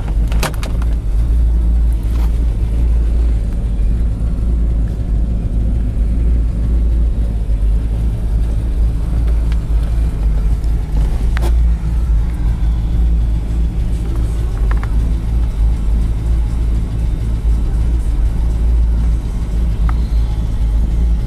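5.7-litre Chevy V8 engine of a Hummer-style 4x4 running steadily, a deep low drone with a few faint clicks over it.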